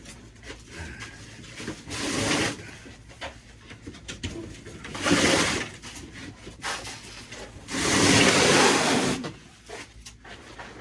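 Items being shifted and handled: three bursts of rustling noise, the last and longest about eight seconds in.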